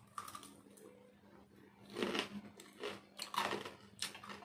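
A mouthful of crisp fried onion pakora (gram-flour batter) being chewed. There are irregular crunches, starting about two seconds in.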